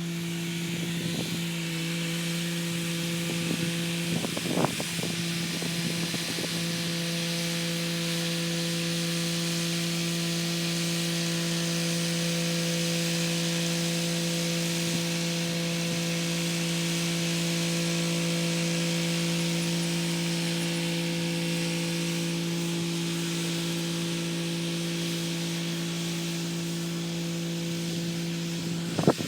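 Kubota SL35 tractor's diesel engine running at a steady speed with the rotary tiller working, a constant hum with a hiss above it. A few short knocks come through about four to six seconds in and once near the end.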